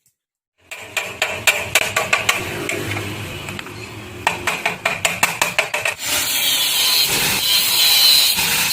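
Metalworking on a rusted motorcycle frame during rust repair: a quick, irregular run of sharp taps or knocks, then about six seconds in a steady, loud hiss takes over.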